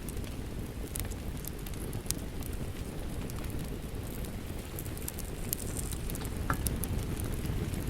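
Wood fire crackling, with scattered sharp pops over a steady low rush of falling rain.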